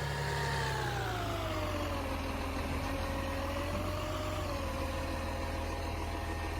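Garbage truck engine running, its pitch falling over the first couple of seconds and then holding steady, with a slight rise and fall about four seconds in.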